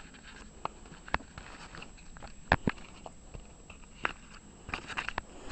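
Light handling noises: a scattered series of small taps, clicks and rustles, the sharpest about two and a half seconds in, as of a paper airplane being handled and picked up.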